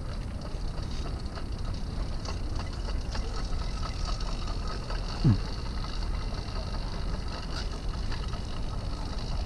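Motorized bicycle on the move: a steady low rumble with wind noise on the microphone. About five seconds in, a brief tone glides sharply downward and stands out as the loudest sound.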